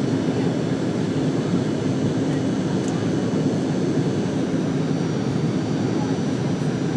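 Steady engine and airflow noise inside an airliner cabin during the climb after take-off: an even low rumble with a constant hum and faint high whine.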